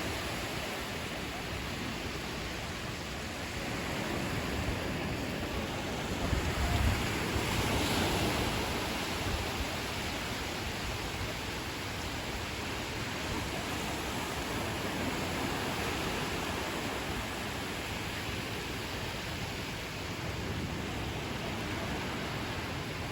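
Ocean surf washing onto a beach as a steady rushing wash, swelling as a larger wave breaks about seven seconds in.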